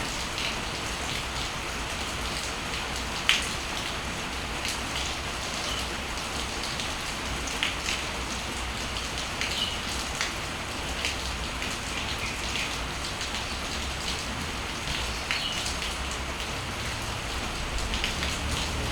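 Steady rain falling, with scattered drops tapping sharply on nearby surfaces; one louder drop about three seconds in.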